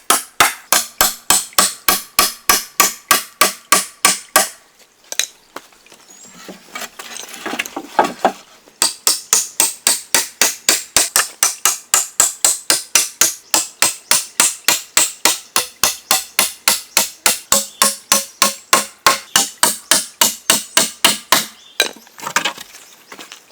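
A hand tool struck over and over in a fast, even rhythm of about three blows a second, hammering or chopping. It pauses for about four seconds partway through, then resumes in the same rhythm.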